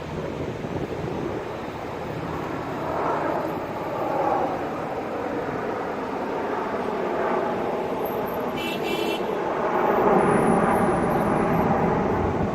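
Jet aircraft flying past, a wide rushing engine noise that swells about three seconds in and rises to its loudest around ten seconds.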